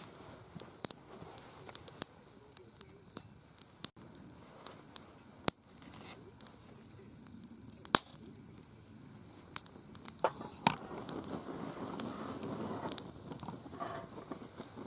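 Wood campfire crackling, with irregular sharp pops and snaps. A louder rustling noise swells for a few seconds near the end.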